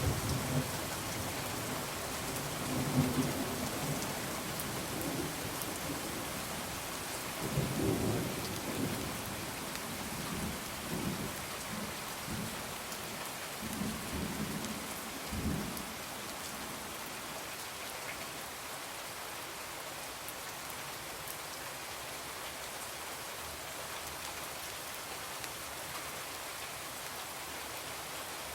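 Steady rain falling, with low rolling thunder rumbling through the first half and dying away about halfway through, after which only the even rain remains.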